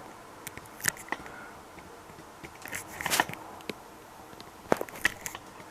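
A few scattered light knocks, clicks and scrapes of objects being handled and shifted, with a cluster of them about three seconds in and another sharp knock near five seconds.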